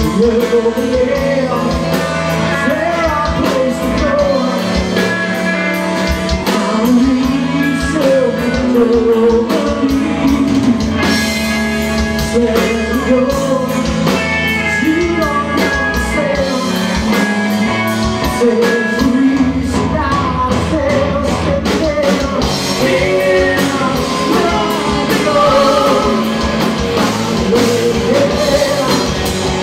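Live rock band playing with a lead vocalist singing over electric guitar, bass and drum kit.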